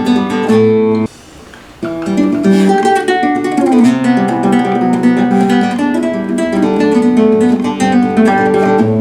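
Acoustic guitar playing a strummed and plucked chord riff. It breaks off briefly about a second in, then starts again.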